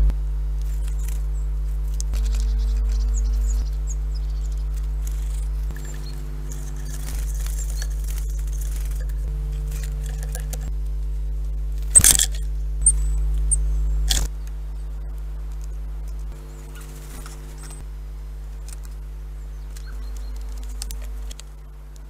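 Tits at a wooden bird feeder: scattered light taps and clicks of pecking and hopping, and a sharp knock about halfway through as a bird takes off, with two smaller knocks after it. A steady low hum runs underneath.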